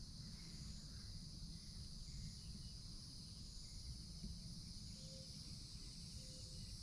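Steady high-pitched drone of an insect chorus in the pine woods, with faint scattered bird notes and a low rumble underneath.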